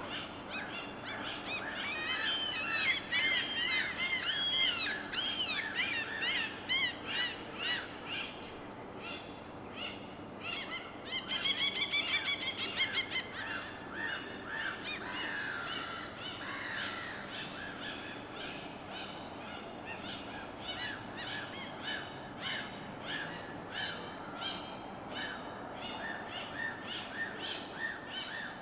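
Birds chirping and calling over a steady background hiss, with a dense run of quick arching chirps early on, a rapid trill partway through, and later a long series of short repeated calls.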